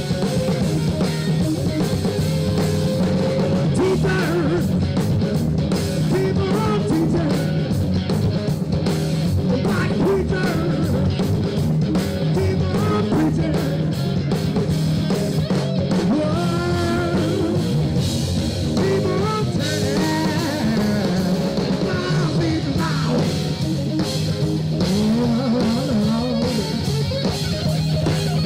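Live rock band playing: guitars and drum kit with a steady beat, and a singer's voice over them.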